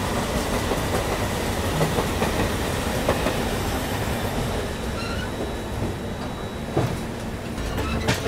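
Double-decker express train running at speed, heard from beside the coach: a steady rush of wheel and track noise with occasional clacks as the wheels pass rail joints and points.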